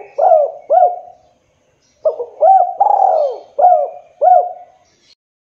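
Spotted dove (tekukur) singing: the last two coos of one phrase, a short pause, then a full phrase of about five arched coos.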